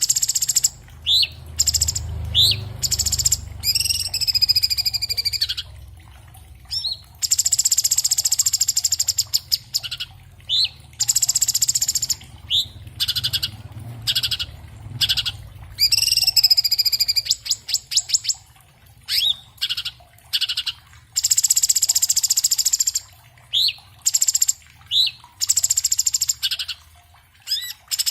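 Orange-bellied leafbird (cucak cungkok, Chloropsis hardwickii) singing a fast, loud, varied song: rapid runs of chattering buzzy phrases mixed with short rising whistled notes, one phrase after another with only brief pauses.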